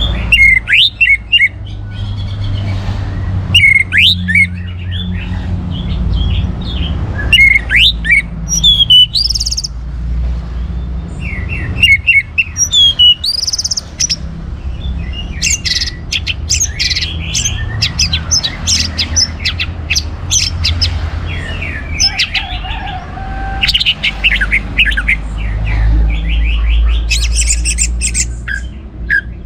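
Orange-headed thrush singing in varied phrases of short whistled notes and slurs, with runs of fast rattling trills in the second half, over a steady low rumble.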